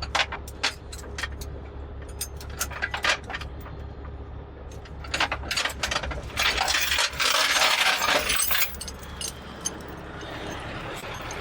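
Steel tie-down chains clinking and rattling as they are handled, with a denser stretch of rattling about seven seconds in.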